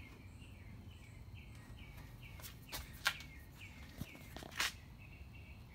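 A small bird chirping over and over, short high downward notes about three a second. A few sharp clicks and rustles come through, the loudest about three seconds in and again a second and a half later.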